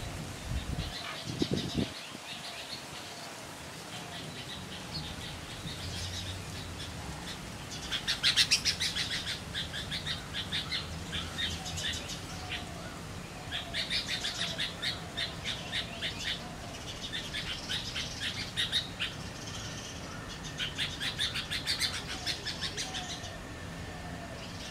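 Birds calling in bursts of rapid, high chattering notes, repeating every few seconds, with a low thump about one and a half seconds in.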